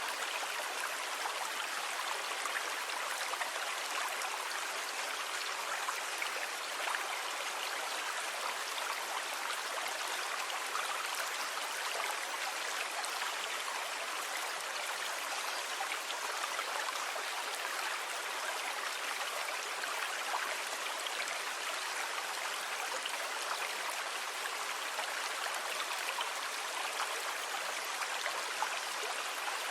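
Sea water making a steady, even hissing wash, with no separate wave surges standing out.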